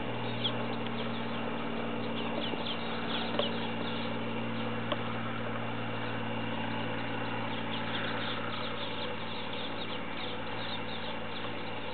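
Small birds chirping in short downward-sweeping notes, in bunches near the start and again later, over a steady low hum, with a few faint ticks.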